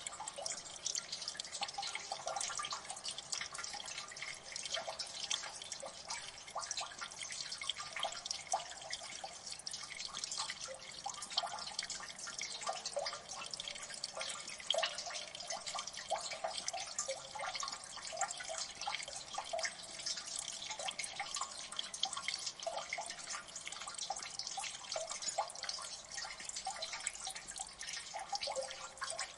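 Water dripping in a gully: many small drips a second landing at an irregular pace, each a short plink, with no let-up.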